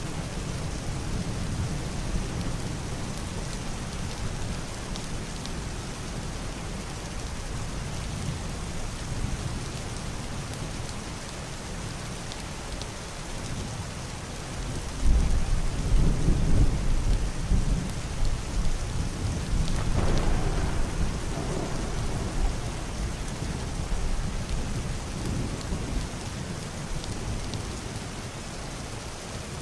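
Heavy rain falling steadily on a roof and window glass. About halfway through, a deep, muffled rumble of thunder starts suddenly and rolls on for several seconds, swelling a second time before it fades.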